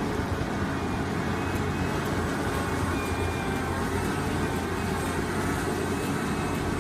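Liebherr 984 hydraulic excavator working, its diesel engine running steadily.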